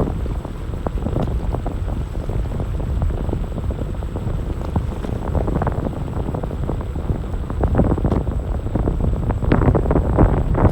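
Wind buffeting the microphone: a steady low rumble with scattered crackles, growing stronger near the end.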